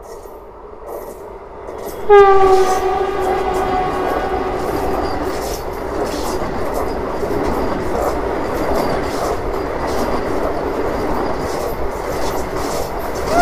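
Vande Bharat Express electric train sounding its horn about two seconds in, loud and sudden, the pitch sinking slowly as it fades while the train closes in and passes. Then a steady rush of the train running past at high speed, with its wheels clattering over the rail joints.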